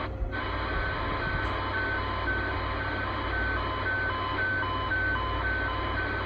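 A CB radio receiving an alarm-like electronic signal on lower sideband: short beeps alternating between a higher and a lower tone, each tone about twice a second, over steady static hiss and a low hum.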